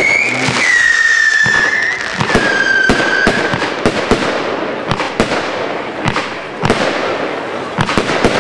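Pyro Austria 'Marathon' firework battery firing. In the first few seconds come three whistling shots, each a held whistle a little lower in pitch than the last, over a constant crackle; then a quick irregular run of sharp bangs and pops.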